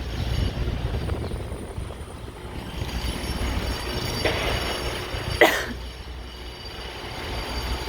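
Steady low rumble of street traffic and idling trucks, with a brief high squeal about five and a half seconds in.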